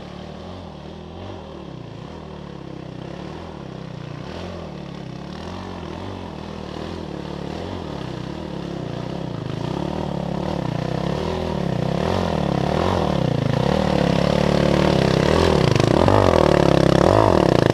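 Enduro motorcycle engine revving up and down about once a second as it is ridden along a rough forest trail, growing steadily louder and loudest near the end.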